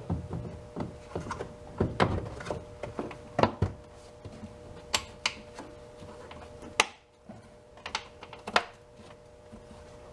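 Hard plastic parts of a Honda CR-V's air filter housing and intake being handled and fitted back in place: a string of scattered knocks and clicks, some sharp, as the pieces are pushed and snapped together.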